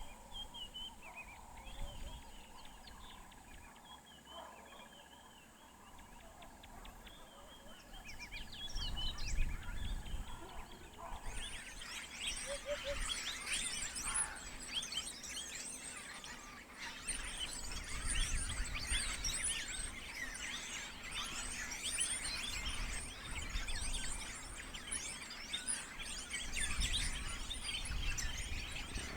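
Wild birds calling: scattered chirps at first, then, about eleven seconds in, a dense chorus of many birds chattering at once.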